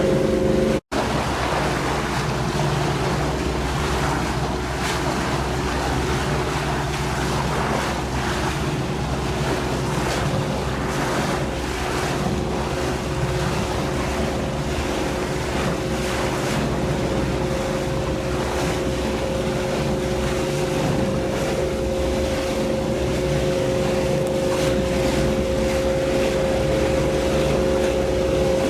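Motorboat engine running at a steady speed, with wind and water noise over the microphone. The audio drops out for a split second about a second in.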